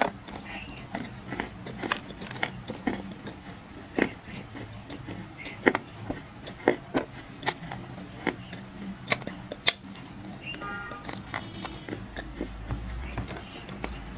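Dry clay crunching and cracking in a series of sharp, irregular snaps.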